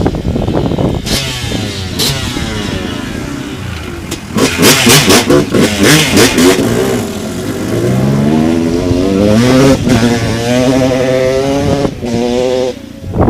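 Dirt bike engine revving and accelerating, its pitch climbing in steps as it goes up through the gears in the second half. There is a louder, rougher stretch between about four and six seconds in.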